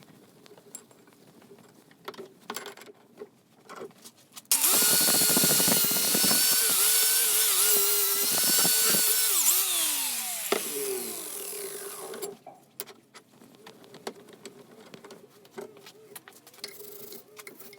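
A small power tool runs at speed for about six seconds, starting suddenly about four and a half seconds in, then spins down with a falling whine. Light clicks and handling noises come before and after it.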